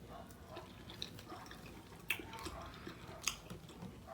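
A person chewing a mouthful of burrito close to the microphone: soft wet mouth sounds with scattered sharp smacks, the clearest about two seconds in and just after three seconds.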